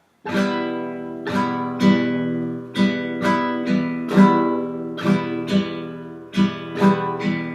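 Acoustic guitar strumming an E minor chord with the index finger in the campfire rhythm: an uneven down, down-up, up-down-up strumming pattern. Each strum rings on into the next.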